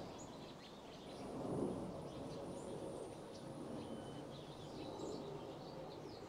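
Outdoor garden ambience: a steady low background noise with faint, scattered bird chirps, and a thin high-pitched tone that holds from about a second in until about five seconds.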